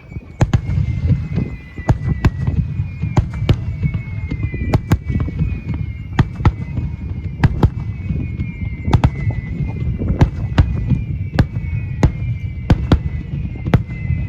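Fireworks display in a rapid barrage: many sharp shell bursts close together over a continuous low rumble, with repeated falling whistles above them. It starts suddenly after a quieter moment.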